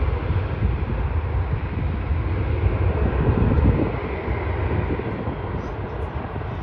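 Jet airliner engine noise passing by: a rushing rumble that builds to its loudest about three and a half seconds in, then fades.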